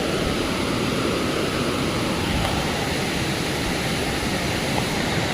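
Fast-flowing stream rushing steadily, a continuous even wash of water noise.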